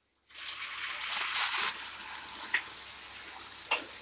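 Tomato puree poured into hot oil and fried onions in a kadhai, sizzling sharply as its water hits the oil, starting suddenly about a third of a second in and carrying on as it is stirred, with a couple of light clicks.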